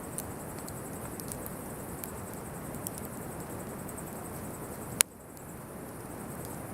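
Campfire burning with a steady low rush and scattered crackles, and one sharp, loud pop about five seconds in.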